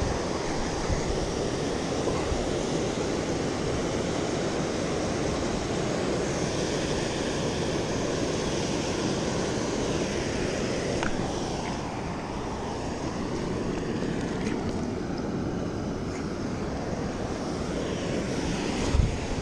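Steady roar of a waterfall close by, loud and even throughout, with a few low thumps near the end.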